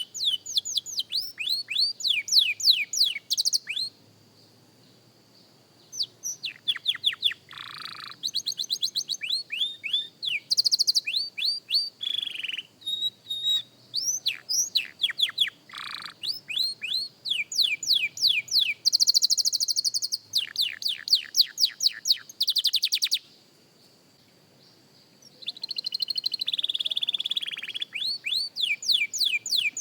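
Young canary singing practice song: fast trills of repeated downward-sweeping notes and dense rolls, broken by two short pauses, around four and twenty-four seconds in.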